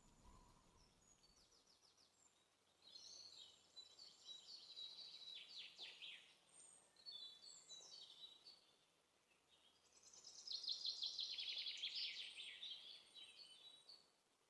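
Faint birdsong: small birds chirping in rapid high trills, in two spells about three seconds in and again about ten seconds in.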